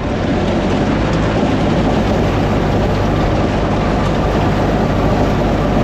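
Farm tractor running steadily under load while a sickle-bar mower conditioner cuts hay: a constant engine drone with a dense rattling noise over it.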